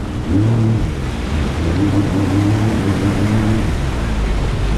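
Jet ski engine running steadily under way, with a constant rush of wind and water noise over it.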